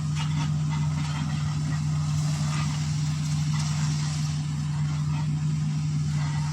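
A motor running steadily with a constant low hum and a hiss of noise above it, unchanging in pitch.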